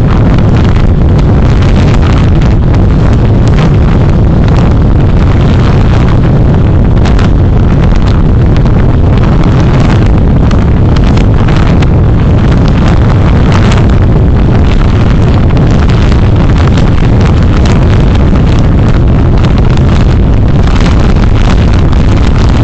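Heavy wind buffeting on the microphone of a vehicle on the move: a loud, steady rumble with constant short gusts, covering any engine or road sound.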